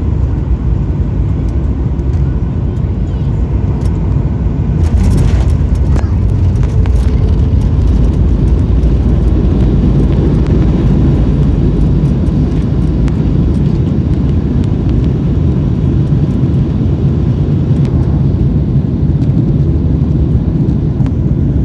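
Jet airliner noise during landing: a steady low rumble that grows louder about five seconds in, with a short burst of rattling, then stays loud.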